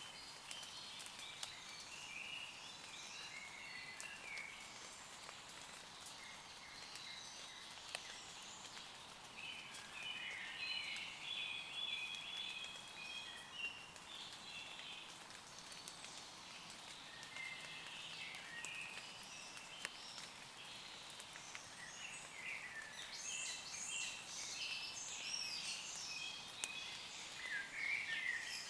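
Woodland birds singing in a busy chorus of short chirps and warbled phrases, over a light patter of rain dripping on leaves with scattered single drop ticks.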